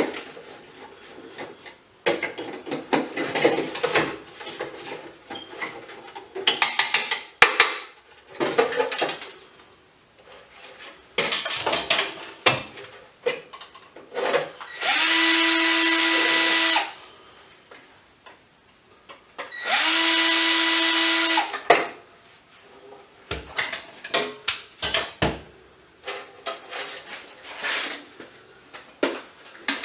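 Small power drill/driver motor running twice, about two seconds each time, a steady whine, amid clattering and clicking as parts are handled.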